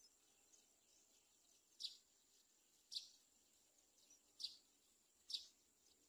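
Four short, high bird chirps about a second apart, over a faint steady high-pitched tone.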